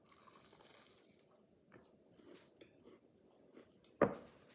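Close-up chewing and crunching of a flaky croissant filled with cookie dough, with a crackly crunch in the first second and soft crackles after. A single sharp knock sounds near the end, louder than the chewing.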